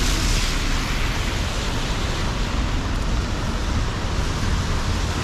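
Steady city street noise in the rain: a constant hiss of traffic and rainfall over a low rumble of passing vehicles.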